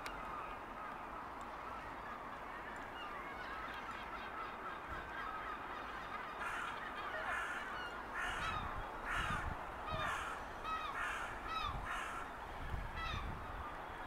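Birds calling on the water: short calls over a steady background hiss, few at first, then coming quickly one after another from about six seconds in until near the end.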